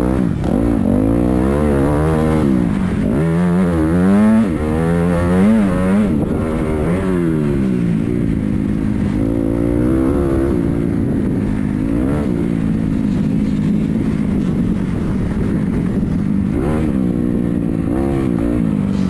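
Motocross dirt bikes running, their engines revving up and falling back again and again, with more bikes droning steadily behind.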